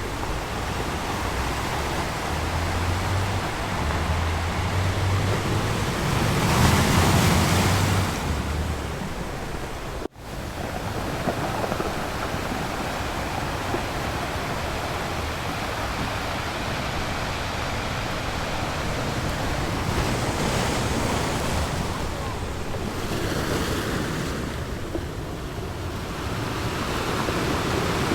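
Ocean surf washing and breaking on the shore, a steady hiss of water that swells and ebbs, with a bigger wave surging about seven seconds in and another building near the end. Low wind rumble on the microphone during the first nine seconds, and the sound cuts out for an instant about ten seconds in.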